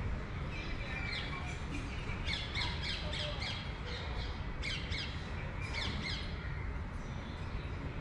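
Birds calling in a quick run of short, sharp, falling notes for several seconds, over a steady low background rumble.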